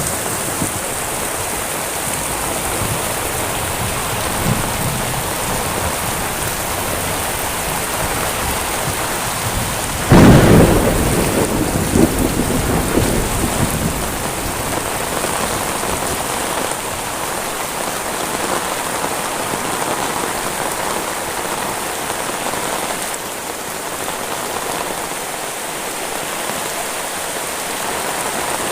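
Heavy rain falling steadily, with a loud thunderclap about ten seconds in that rumbles away over a few seconds.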